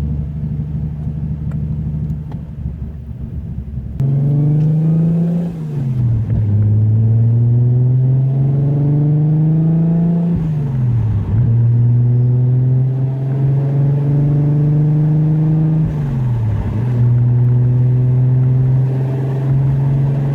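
Single-turbo Nissan RB26DETT inline-six in an R32 Skyline GT-R pulling through the gears. About four seconds in, the engine note steps up and climbs in pitch. It then drops back three times as gears change, and holds steadier between shifts.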